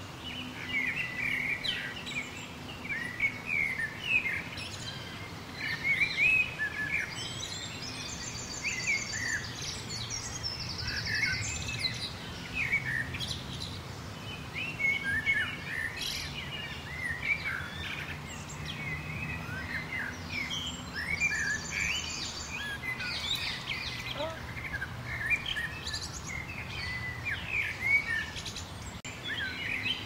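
A chorus of several wild birds singing and calling: overlapping short chirps and whistles, with a rapid high trill twice.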